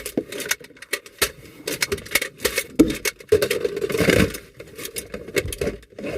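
Irregular sharp clicks and knocks mixed with rustling, many in quick succession, thickest about four seconds in.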